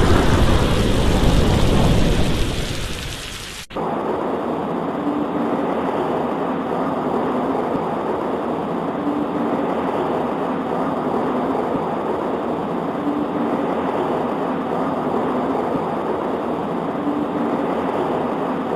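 A rolling thunder rumble fades out over the first three seconds or so. It gives way abruptly to a steady patter of rain on a window.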